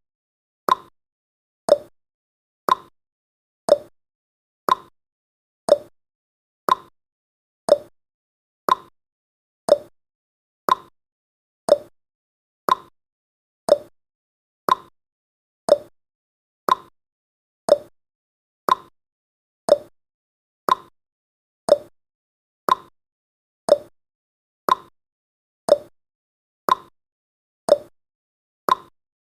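Countdown timer's ticking sound effect: a sharp click about once a second, alternating higher and lower in pitch like a clock's tick-tock.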